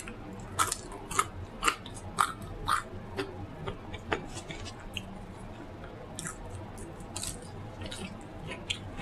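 A person chewing food close to the microphone, the loud chews coming about twice a second for the first three seconds and then softer and more spaced out.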